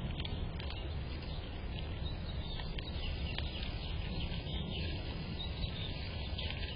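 Small birds chirping faintly and repeatedly over a steady low rumble of background noise.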